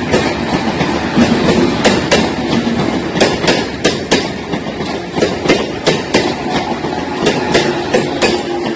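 Suburban electric train moving, a steady rumble with many sharp hard knocks at irregular intervals, about one or two a second.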